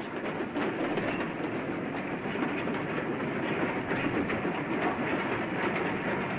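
A goods train running along the rails: a steady rumble with the clatter of its wheels.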